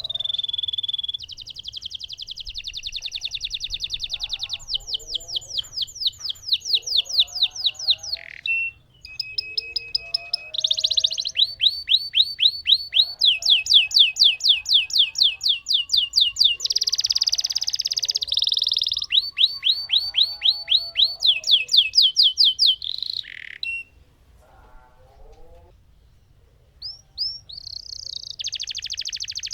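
Lemon canary singing long rolling trills: series of rapid, evenly repeated notes that change pattern every few seconds. It breaks off for about three seconds near the end, then starts another roll.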